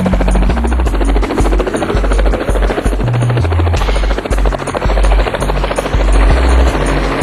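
Robinson R44 helicopter running in flight, a loud steady rotor and engine noise with a fast, even chop, with background music carrying a stepping bass line and regular high ticks over it.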